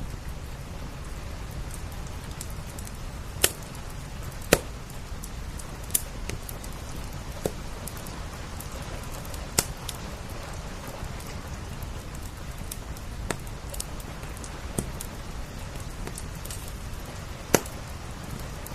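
Wood fire crackling, with a handful of sharp, irregular pops standing out over a steady hiss of rain.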